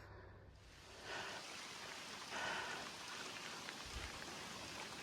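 Steady crunching hiss of bicycle tyres rolling slowly over a gravel road on a steep climb, growing a little louder about a second in.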